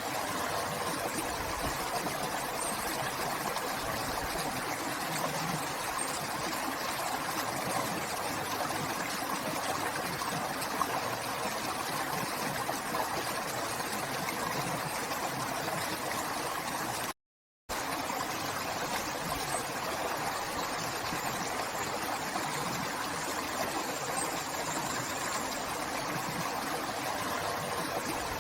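River water flowing and rushing steadily over stones, with a brief half-second dropout to silence about two-thirds of the way through.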